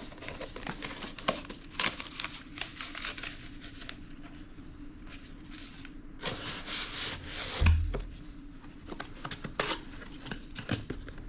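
Packaging crinkling and rustling as parts are unwrapped and handled, in many short crackles, with one thump about two-thirds of the way through.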